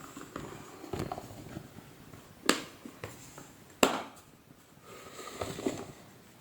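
Parts and tools being handled during the reassembly of a vacuum cleaner: scattered rustling and clattering, with two sharp knocks about a second and a half apart near the middle.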